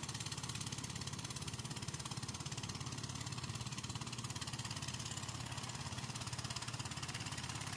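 Engine of a Thai boat passing offshore, running steadily with a fast, even pulse.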